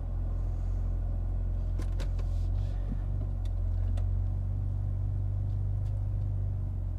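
BMW G80 M3's twin-turbo straight-six running low and steady as the car creeps backward and then forward. A few light clicks come about two and four seconds in.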